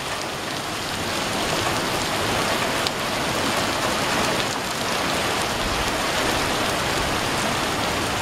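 Heavy rain pouring down steadily onto wet pavement, with a few sharper ticks of drops here and there.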